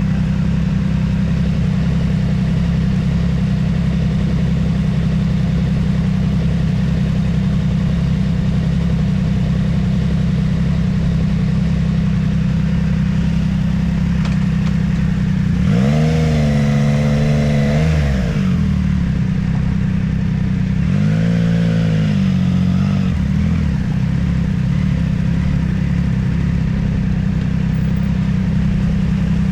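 Motorcycle engine running at a steady speed on the move. A second engine rises in pitch, holds and drops back twice, about halfway through.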